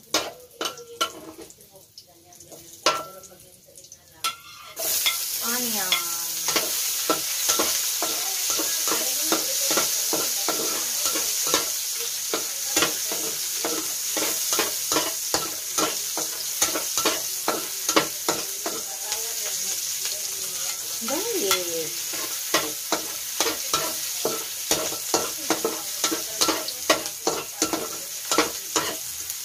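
Metal spatula tapping and scraping in a wok as ginger fries in a little oil. About five seconds in, sliced onions go into the hot oil and a loud, steady sizzle starts, with the spatula clicking against the pan as they are stir-fried.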